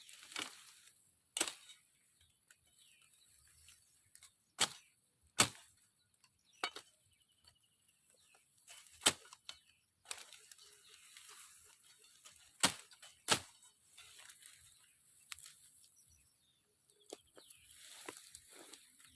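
Blade chopping into small trees or branches: about seven sharp strikes at uneven intervals, with leaves and brush rustling between.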